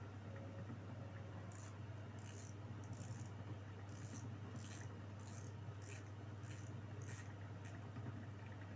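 About a dozen short, scratchy rubbing strokes, roughly two a second, from handling during the reel unboxing, over a steady low hum.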